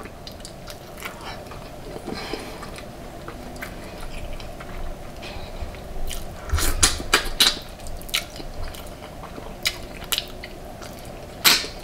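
A person chewing and biting food close to the microphone, with scattered sharp clicks: a cluster about six to seven and a half seconds in and one more near the end.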